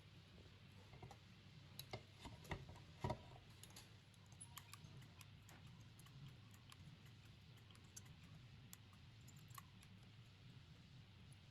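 Scattered light clicks and taps of small tools and parts being handled, with a few louder knocks about two to three seconds in, over a faint low hum.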